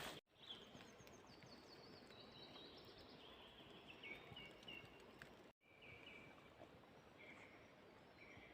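Faint, distant birdsong, short chirping phrases, over quiet outdoor background noise. The sound drops out completely for an instant twice, about a quarter-second in and again past the middle.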